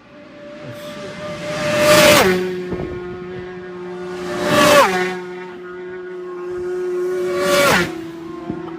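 Racing superbikes passing at very high speed, three in turn: each engine note swells to a peak and then drops sharply in pitch as the bike goes by, about two seconds in, near the middle and near the end.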